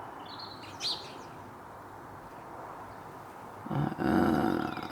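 A small garden bird chirping briefly near the start. Near the end comes a louder, pitched sound lasting about a second.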